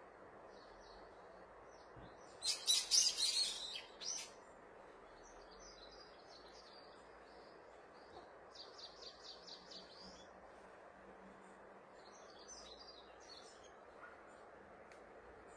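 Birds chirping: a loud cluster of rapid high chirps about two and a half seconds in, then a quieter run of short chirps later, with scattered faint calls, over a steady background hiss.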